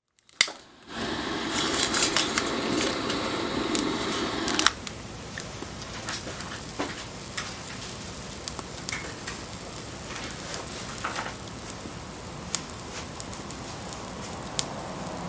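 Wood fire burning, crackling with scattered sharp pops over a steady hiss. For the first four and a half seconds a louder rushing sound lies over it, then cuts off suddenly, leaving the quieter crackle.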